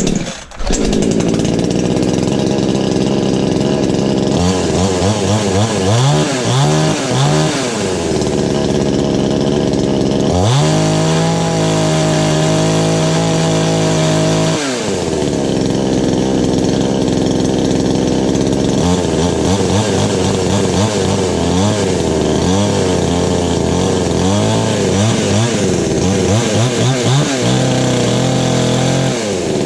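Chinese-made 22-inch chainsaw's two-stroke engine catching on a cold start and running. It idles unevenly with a wavering pitch, is revved to a high steady pitch for about four seconds midway, then drops back to an uneven idle.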